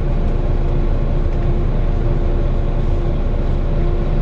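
Volvo B9TL double-decker bus heard from inside the cabin while under way: its six-cylinder diesel engine and the road noise make a steady rumble, with a steady droning tone over it.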